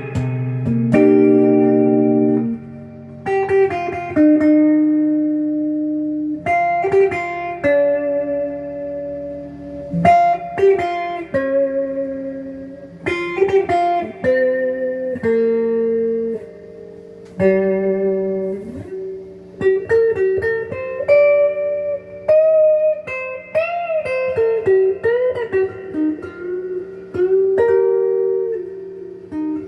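Donner DLP124 electric guitar played through the clean channel of a Crate GX15 amplifier, pickup selector in the middle position: picked notes and chords that ring and decay, with string bends and vibrato in the last few seconds.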